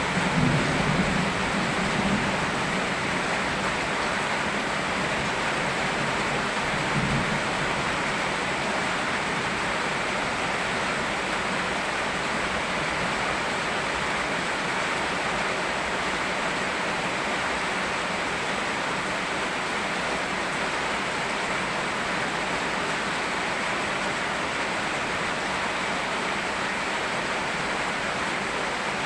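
Steady rain together with a flowing river, an even, continuous hiss. A low rumble of distant thunder dies away in the first couple of seconds, with a short low rumble again about seven seconds in.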